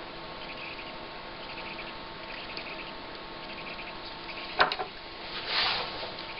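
Monitor circuit board and parts being handled: one sharp click about four and a half seconds in, then a brief scraping rustle, over a steady faint hum.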